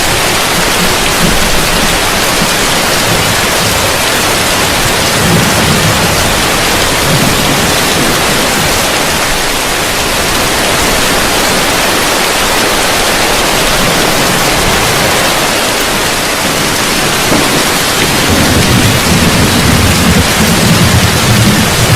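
Heavy rain falling steadily on a roof, a dense even hiss. Low thunder rumbles, briefly about five seconds in and more strongly over the last few seconds.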